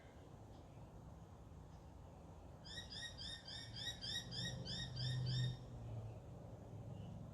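A bird calling in a quick run of about a dozen short, arched notes, roughly four a second, lasting about three seconds. A low hum swells under the middle of the run and is loudest near its end.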